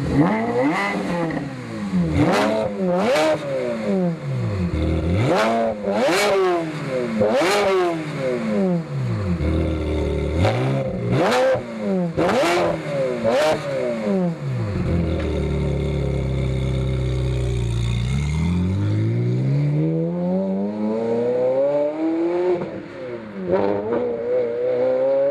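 Ferrari 360 Spider's V8 through a full aftermarket exhaust (equal-length headers, sport cats, Maxflo muffler), revved in a series of quick throttle blips that each rise and fall. It settles to a steady idle, then pulls away with the revs climbing steadily.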